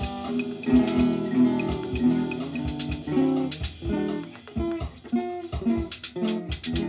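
Acoustic guitar playing, plucked notes and strummed chords in a flowing instrumental.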